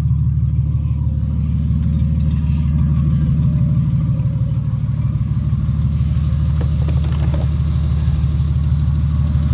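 Ford AU Falcon engine idling steadily on its first heat cycle after an engine swap. It has no exhaust system fitted and is venting straight out of the catalytic converter.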